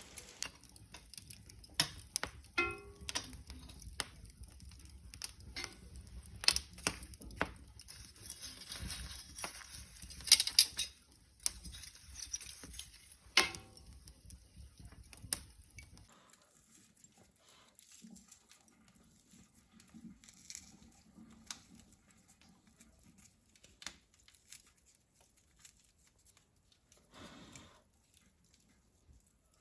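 Wood fire crackling with irregular sharp pops. About halfway through the pops become fainter and sparser.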